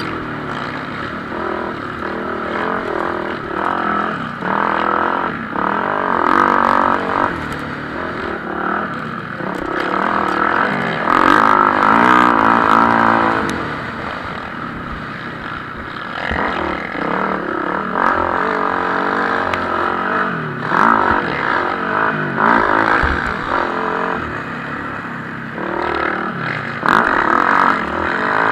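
Several motocross bikes racing, their engines revving up and falling back again and again as they pass, loudest about twelve seconds in.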